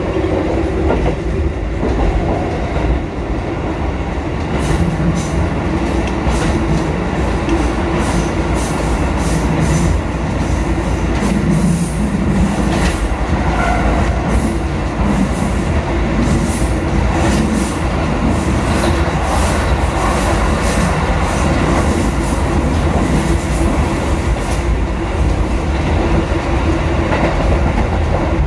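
Kotoden 1080 and 1100 series four-car electric train running along the line with a steady low rumble of wheels on rail. Through the middle stretch there is a run of sharp clicks from the wheels crossing rail joints.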